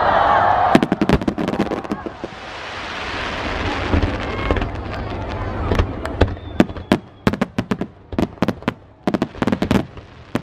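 Aerial fireworks bursting overhead: a loud burst at the start, a hissing, crackling rush a few seconds in, then many sharp crackling pops close together through the second half.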